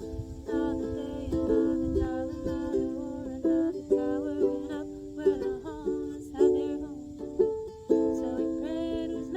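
Ukulele strummed in a steady pattern of chords, each stroke a quick bright attack that rings on into the next.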